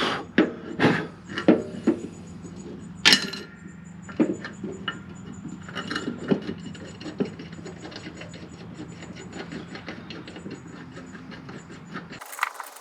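Hand tools and metal parts being worked on a riding mower deck: irregular clicks and knocks, some sharp and loud, over a steady low hum. The clicks thin out after the first few seconds.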